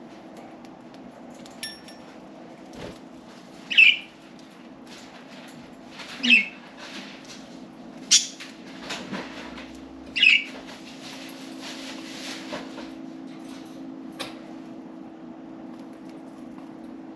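Pet budgerigars giving short, sharp chirps: four loud ones about two seconds apart, among small clicks and flutters.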